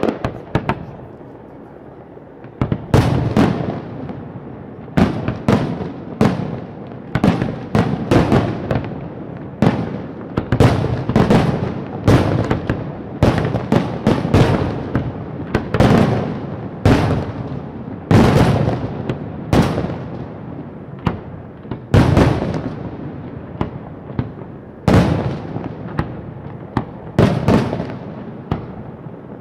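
Fireworks display: a quick succession of loud bangs, about one or two a second, each trailing away. It starts about three seconds in after a couple of single bangs.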